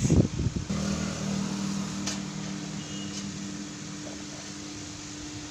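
A steady mechanical hum, like a small electric motor or fan, that comes in strongly under a second in and then settles, with a light click about two seconds in.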